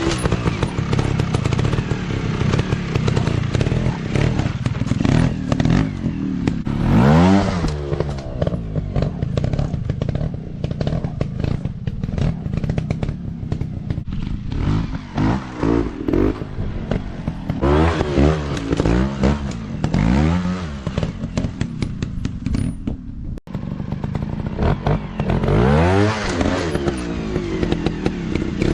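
Dirt bike engines running and revving, the pitch rising and falling in repeated swells as the throttle is opened and closed, with a brief cut about two-thirds of the way through.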